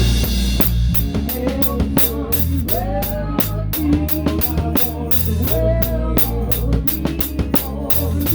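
Live rock band playing. A close-heard Pearl drum kit with a towel-damped snare keeps a steady beat of kick and snare strokes under bass guitar, and an electric guitar plays bending lead lines over them.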